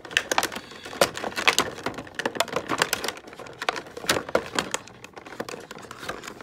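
Stiff plastic toy packaging crinkling and rustling as it is handled, with many irregular sharp clicks.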